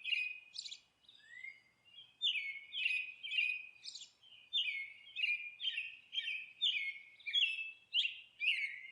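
Small bird chirping over and over in short, high, falling chirps, about two to three a second, with a brief lull about a second in.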